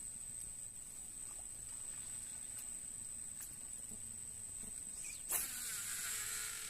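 Insects calling with a steady, high-pitched drone. About five seconds in a sudden hissing rush starts and lasts over a second.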